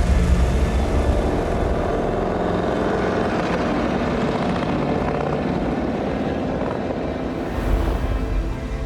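Harley-Davidson V-twin motorcycle engine running under throttle, a fast, steady pulsing exhaust.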